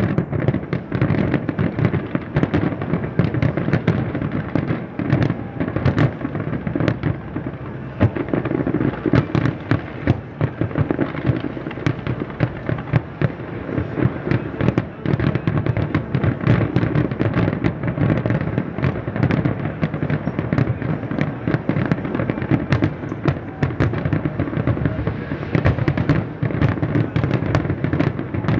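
Large fireworks display: a dense, unbroken barrage of shell bursts, with rapid bangs and crackle running together into a continuous rumble.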